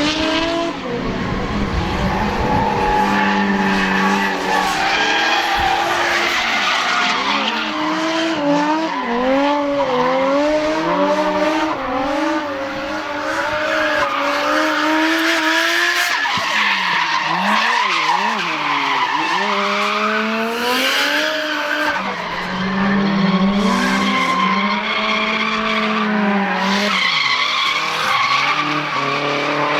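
Drift cars sliding past close by, their engines revving high, the pitch rising and falling constantly with the throttle, over tyres skidding on the tarmac.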